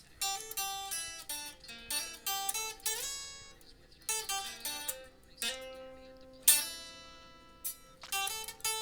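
Acoustic guitar playing an instrumental intro: separate plucked notes ringing one after another, with one loud struck chord about six and a half seconds in.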